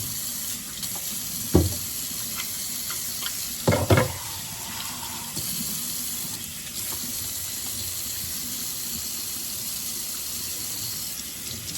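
Kitchen tap running steadily into a sink, with a sharp knock about a second and a half in and a louder double knock about four seconds in.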